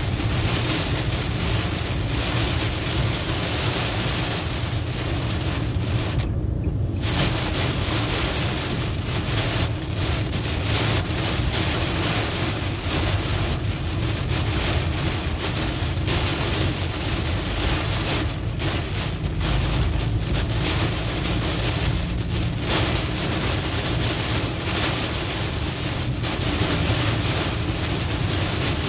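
Heavy rain pelting a moving vehicle's windshield and roof, heard from inside, over steady road and tyre-spray noise. The high hiss of the rain drops out for about a second around six seconds in.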